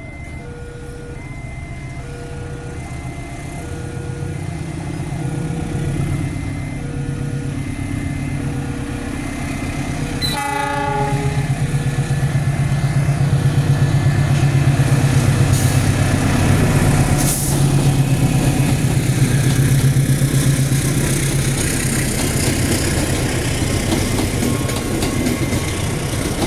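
Level-crossing warning alarm sounding in a steady on-off pattern as a diesel locomotive approaches, getting louder. About ten seconds in, the locomotive gives one short horn blast. Its engine rumble and the wheels clacking over the rail joints then grow loud as the loco and its passenger coaches pass close by.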